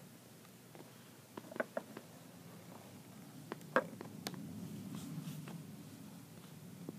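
Faint low hum with scattered light clicks and taps, about eight in all, the sharpest nearly four seconds in.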